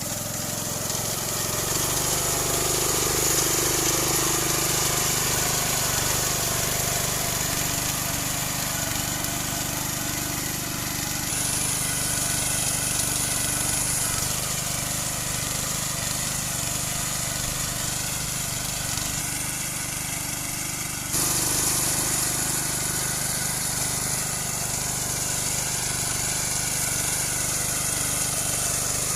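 Small engine of a walk-behind rice reaper running steadily as it cuts rice, with an abrupt jump in level about two-thirds of the way through.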